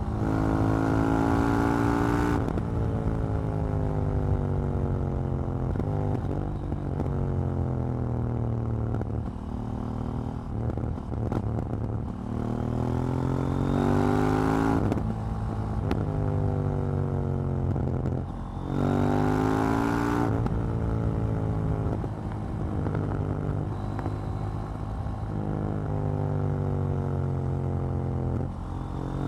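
KTM 790 Duke's parallel-twin engine under way: three hard accelerations, each a couple of seconds with the pitch climbing, separated by long stretches of falling revs as the bike decelerates. A few pops and crackles come on the overrun near the middle.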